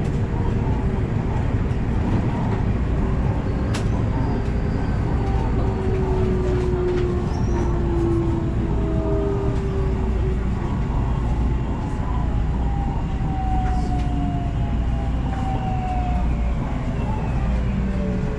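Electric commuter train running from inside the front car, a steady rumble of wheels on rail with whining tones that fall slowly in pitch as the train slows for its station stop. A few faint clicks from the track come through.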